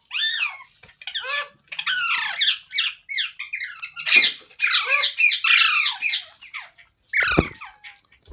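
Ringneck parakeet calling: a rapid run of short, shrill calls, each dropping in pitch, coming in quick clusters with brief pauses between them.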